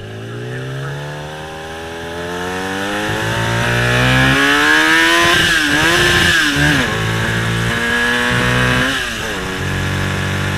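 Motorcycle engine under way, its pitch climbing steadily for about five seconds as it accelerates, then wavering and dropping to a steadier lower note, with another drop near the end. Wind rush on the microphone grows with the speed.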